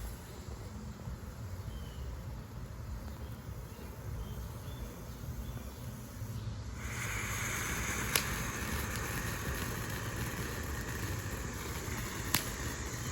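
Small firework fountain catching about seven seconds in and spraying sparks with a steady hiss, with two sharp pops during the spray. Before it catches there is only a quiet outdoor background.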